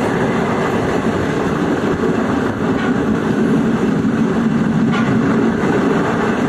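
DEMU (diesel-electric multiple unit) train running at speed, heard from its open doorway: a steady, loud rumble of wheels on rails with a couple of faint clicks.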